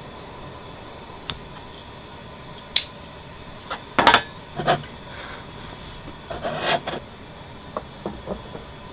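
Scattered clicks, knocks and a short rubbing scrape of objects being handled, the loudest knocks about four seconds in, over a steady background hum.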